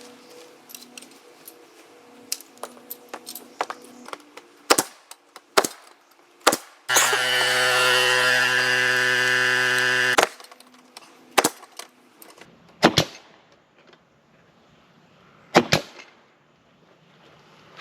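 Sharp single shots of a pneumatic stapler fastening wood roof stringers, with lighter clicks and knocks of handling between them. In the middle a motor hums steadily for about three seconds, then stops.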